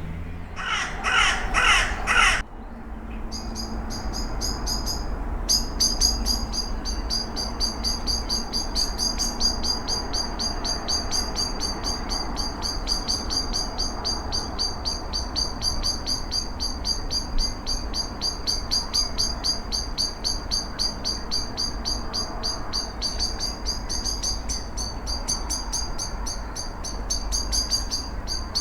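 Woodland birdsong on an unattended field recording. A bird gives about five harsh calls in quick succession in the first two seconds. Then a fast, high-pitched song of rapidly repeated notes runs on without a break, over a low background rumble.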